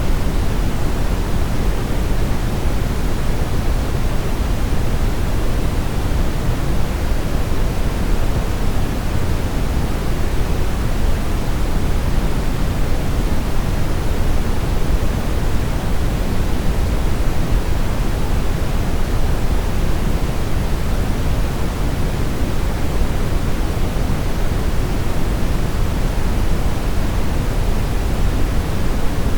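Continuous brown noise: a steady, deep rushing hiss, heaviest in the low end and fading toward the highs.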